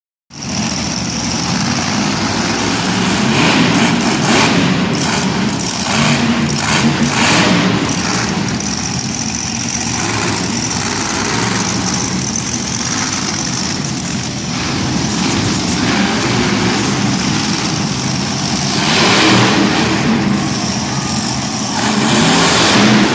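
Bounty Hunter monster truck's engine running hard, revving up and easing off repeatedly. It has a few sharper loud bursts of noise between about three and eight seconds in and again near the end, and a thin high whine in between.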